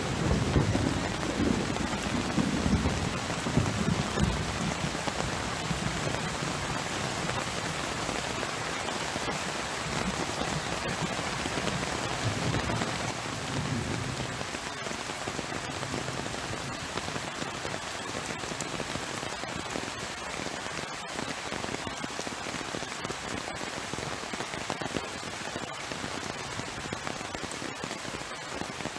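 Heavy rain falling steadily, a dense even hiss. A low rumble of thunder dies away over the first few seconds.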